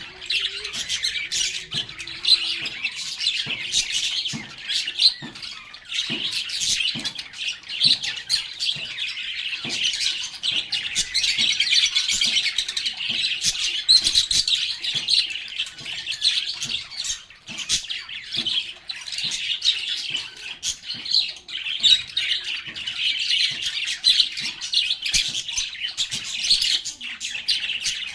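Several lovebirds chattering together: a dense, continuous stream of high chirps and shrill squawks that overlap throughout.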